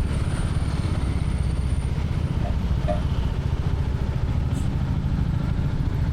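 Royal Enfield Classic 350's single-cylinder engine and exhaust running at a steady, low pulsing beat, with no revving.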